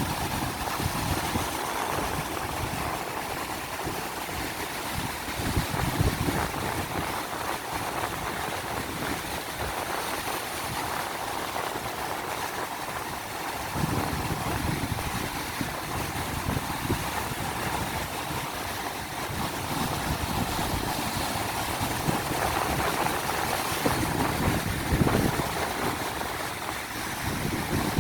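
Ocean surf washing and breaking in a steady roar of noise, with strong wind buffeting the microphone in irregular low rumbling gusts.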